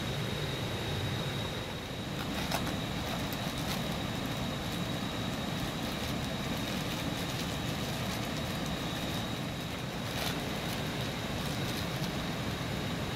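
Steady rushing of rain and water at a constant level, with a thin, unchanging high tone over it and two faint clicks, one about two and a half seconds in and one about ten seconds in.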